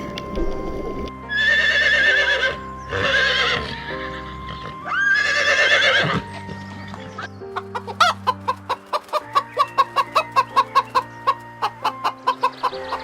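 Animal calls over background music: three loud, wavering, pitched calls, then from about halfway a fast run of short, even notes, about four a second.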